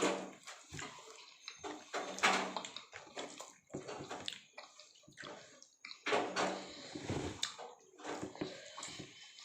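Irregular splashing and sloshing of water in short bursts, loudest near the start, about two seconds in, and again around six to seven seconds.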